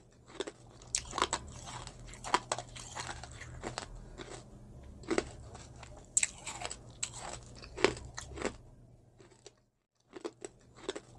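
Close-miked eating: biting and chewing, heard as a quick, irregular run of sharp clicks and crunches over a faint low hum, with a brief break near the end.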